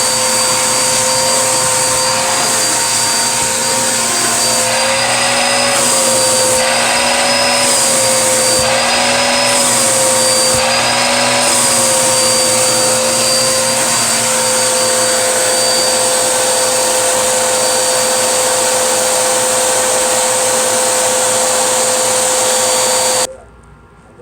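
Vacuum cleaner running steadily with a high motor whine whose pitch wavers up and down several times in the middle. It switches off suddenly near the end.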